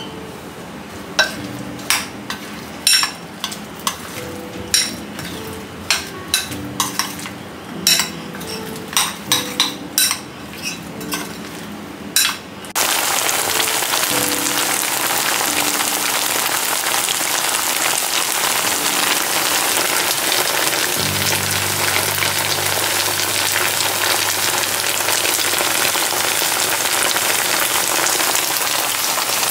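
Sharp irregular clicks and taps as button mushrooms are mixed with batter in a glass bowl. About thirteen seconds in, a loud steady sizzle starts abruptly and keeps on: batter-coated mushroom pieces deep-frying in hot oil in a nonstick frying pan.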